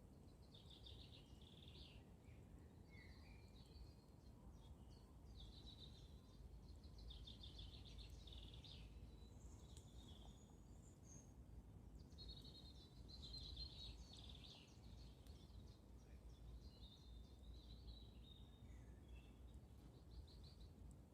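Faint woodland birdsong: birds singing short trilled phrases again and again, over a low steady rumble of background noise.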